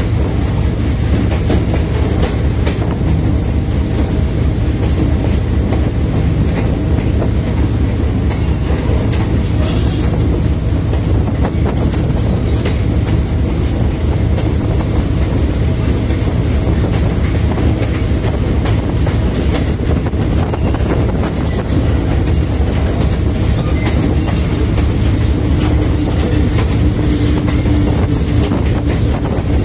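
A train rolling along the track: a continuous low rumble with frequent clicks of the wheels over the rails. A steady hum comes in over the last few seconds.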